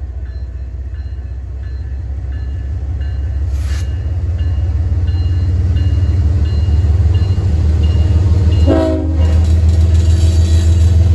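Florida East Coast Railway diesel freight locomotive approaching, its low engine rumble growing steadily louder, while a bell dings at an even pace. A short horn blast sounds about nine seconds in.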